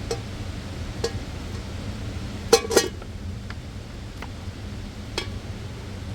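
A handful of sharp knocks and clinks at uneven intervals, the loudest two close together about two and a half seconds in, over a steady low rumble.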